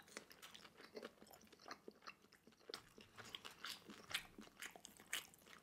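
Faint chewing of a mouthful of pan-fried rice noodle roll (cheung fun): soft, irregular wet mouth clicks, several a second.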